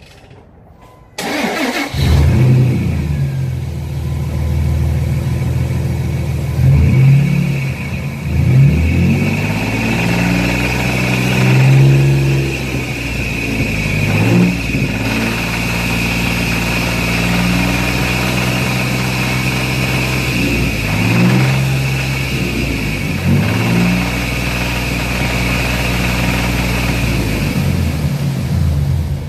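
Dodge Dakota's 3.7-litre V6 starting about a second in, then idling with several brief revs, knocking: rod knock after the engine ran with no oil.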